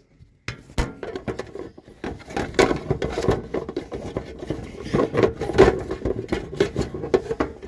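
Close handling noise of a phone being pulled out of a plastic bird feeder: dense, irregular rubbing, scraping and knocking of plastic against the phone.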